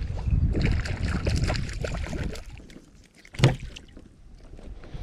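Water sloshing and splashing with clicks and rattles of handling around a fishing kayak as a hooked redfin perch is brought in. It quietens about halfway through, and a single sharp knock comes about three and a half seconds in.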